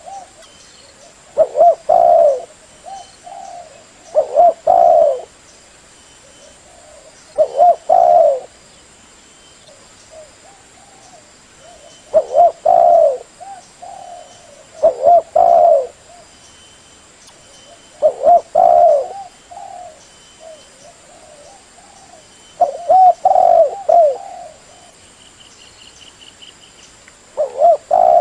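Spotted dove (tekukur) cooing: a loud phrase of a few low coos, repeated about eight times at intervals of three to four seconds.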